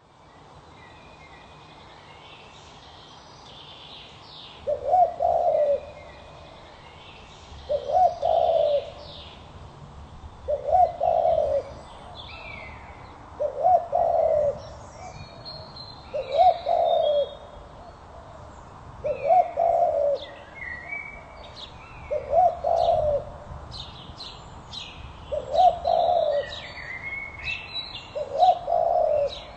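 A dove cooing the same short phrase over and over, about once every three seconds, nine times, starting about five seconds in. Smaller birds chirp higher up in the background.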